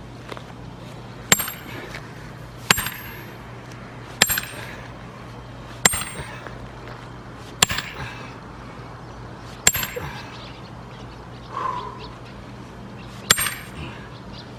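Seven metal-on-metal hammer blows, roughly one every one and a half to two seconds with a longer pause near the end, each a sharp clang with a brief high ring: steel being struck into a log to split it for firewood.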